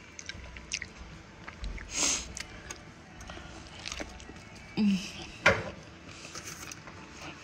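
Eating sounds from close by: a few short, separate chewing and mouth noises with quiet gaps between, the strongest about two seconds in and again about five and a half seconds in.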